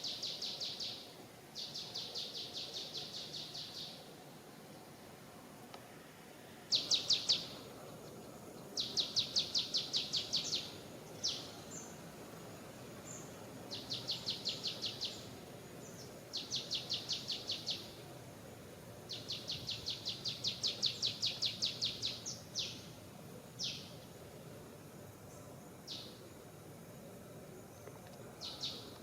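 A bird sings again and again in rapid, high-pitched trills, each lasting a second or two, with single short falling notes in between. A steady low background noise runs underneath.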